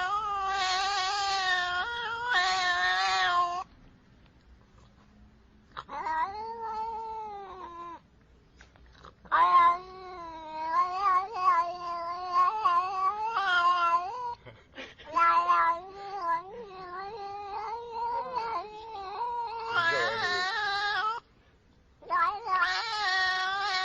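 A domestic cat yowling in long, drawn-out wails, several in a row with short pauses between them.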